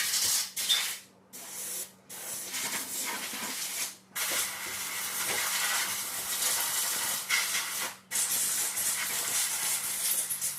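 Pressurised spraying hiss in several long bursts separated by brief breaks, the longest running about four seconds.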